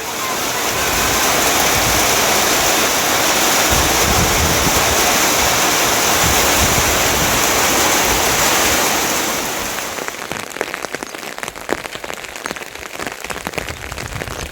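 Heavy rain falling in a dense, steady hiss. About ten seconds in it drops in level and turns to many separate drops striking.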